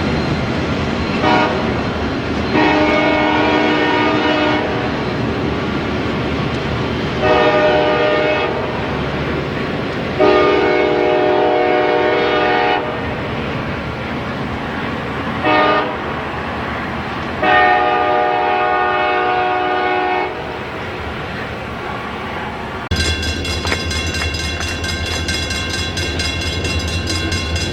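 Locomotive air horn sounding the grade-crossing signal, long, long, short, long, after an earlier short and long blast, over the steady rumble of a train. About 23 seconds in, the horn stops and a louder, deeper rumble takes over as the locomotive comes close.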